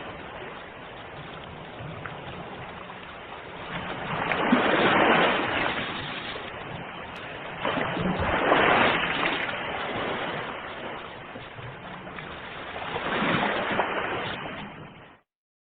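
Ocean waves washing onto a shore, three breakers swelling and fading in turn. The sound cuts off suddenly just before the end.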